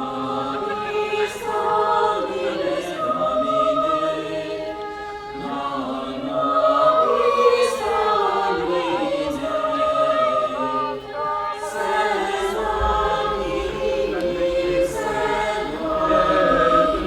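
A choir singing slow sacred chant in long, sustained phrases of several voices together.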